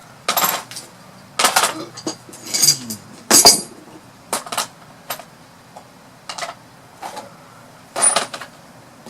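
Hand tools and metal engine parts clinking and knocking against each other during small-engine repair work, about ten irregular sharp clinks with the loudest around the middle.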